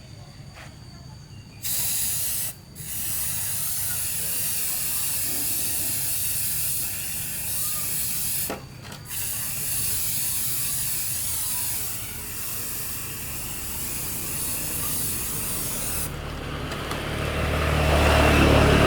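A pressurised spray hissing steadily in long bursts, cutting off briefly twice. Near the end a low mechanical rumble rises.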